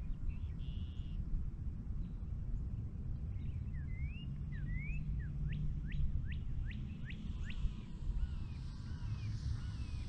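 A songbird calling over a steady low rumble of wind on the microphone. A few rising chirps come about four seconds in, then a quick run of about six falling whistles, then softer calls near the end.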